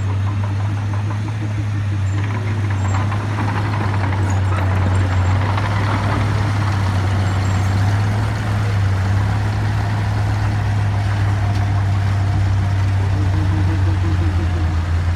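A heavy diesel engine running steadily with a low, even drone.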